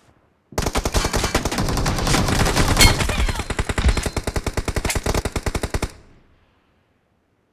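Video-game automatic gunfire: rapid shots in a long, dense stream lasting about five seconds, starting about half a second in and trailing off around six seconds.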